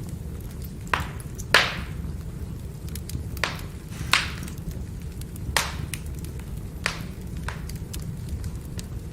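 Burning firewood crackling: about seven sharp pops and snaps, the loudest about one and a half seconds in, over a steady low rumble of the fire.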